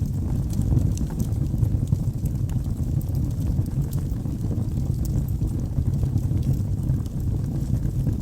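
Wood logs burning in a fireplace: a steady low rumble of the flames with scattered small, sharp crackles and pops.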